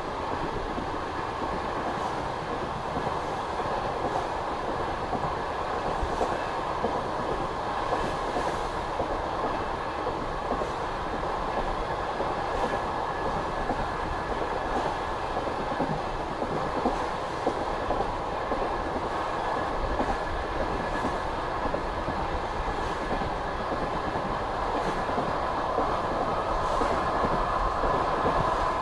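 Passenger train car running at speed: a steady rumble of wheels on rails, with faint clicks as the wheels pass over rail joints every couple of seconds.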